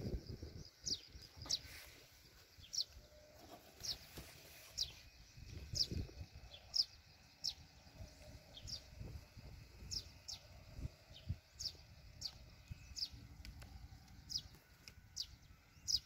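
A bird chirping over and over, short high notes that slide downward, about one and a half a second, over low rumbling from handling and wind.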